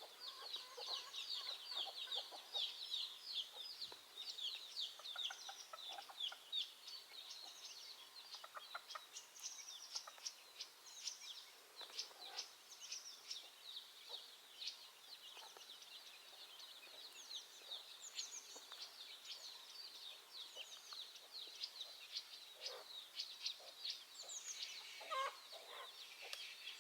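Many small birds chirping densely and continuously, in short, high chirps, with a few lower clucking calls mixed in.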